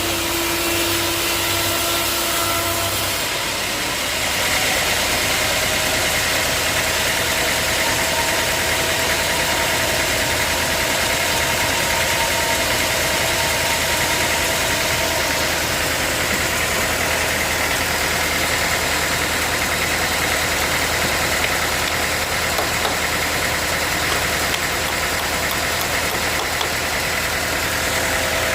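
Sawmill engine running steadily, its tone shifting about three seconds in.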